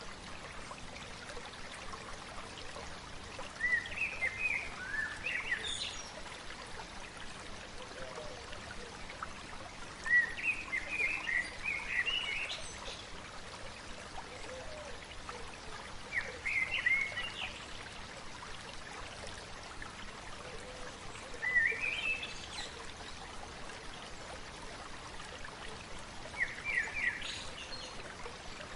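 A stream babbling steadily, while a songbird sings a short phrase of quick notes five times, roughly every five to six seconds.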